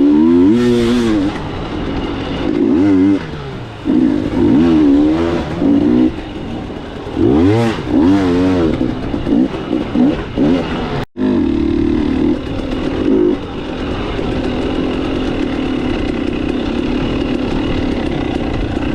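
Dirt bike engine revving up and down over and over while riding. After a sudden cut about eleven seconds in, it runs steadily at an even speed.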